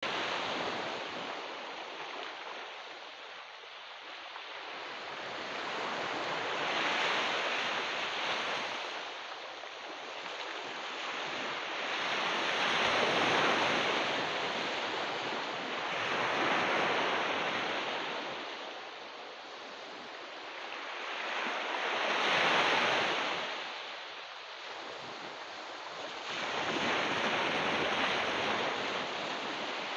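Ocean surf washing in and drawing back, a steady rush that swells and fades every four to six seconds.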